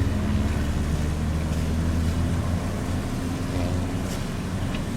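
An engine running steadily with a low hum that eases off slightly towards the end.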